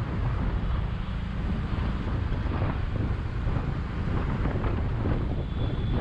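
Wind buffeting the action camera's microphone at riding speed, over the steady running of a Bajaj V15's 150 cc single-cylinder engine on the move.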